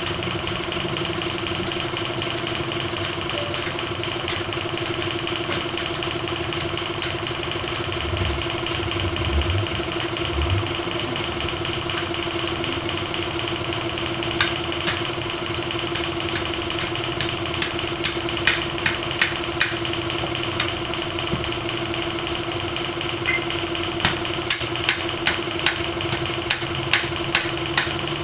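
A machine runs with a steady, even hum. From about halfway, sharp taps come in short runs of about two a second.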